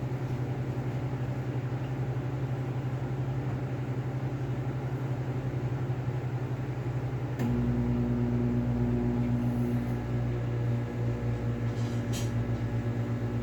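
Microwave oven running with a steady hum. About seven seconds in there is a click, and the hum grows louder and deeper, with an added tone.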